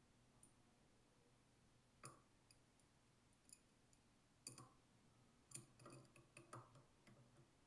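Faint, scattered clicks and taps of a wrench on a fitting, one about 2 s in, one about 4.5 s in and a quick cluster near the end, as the outlet-side check valve of a detergent pump is tightened.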